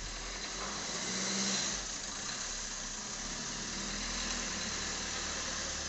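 Suzuki compact SUV's engine running as the car rolls slowly in through the gate and pulls up in the driveway, with a swell about a second in.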